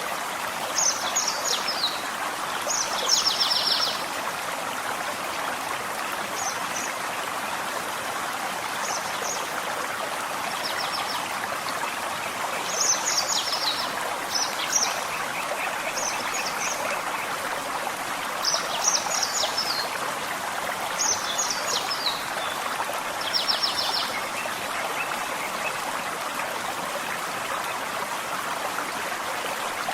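Gentle forest stream running steadily, with a songbird singing short, high, trilled phrases every couple of seconds over the water.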